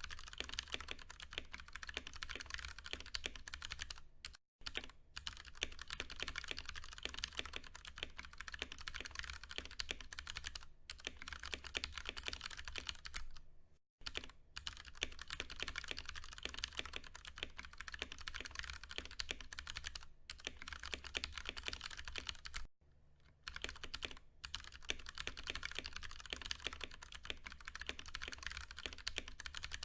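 Fast, steady typing on a Ducky One 2 Mini mechanical keyboard with tactile, non-clicky Cherry MX Brown switches: a dense stream of key clacks. It breaks off briefly about four and a half, fourteen and twenty-three seconds in.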